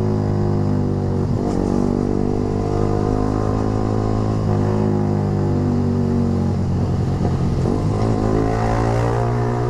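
Yamaha R15 V3's 155 cc single-cylinder engine running through a short Proliner aftermarket racing exhaust while the bike is ridden. The engine note holds steady, then breaks and changes pitch about a second in and again around seven to eight seconds in.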